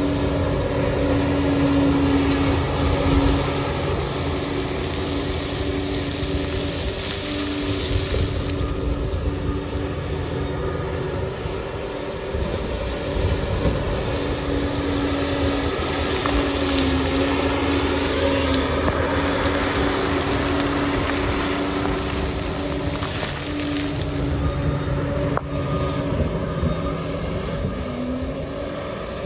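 Liebherr PR 746 crawler dozer at work: a steady diesel engine drone with a held tone that wavers a little. Near the end the engine pitch sags and comes back up.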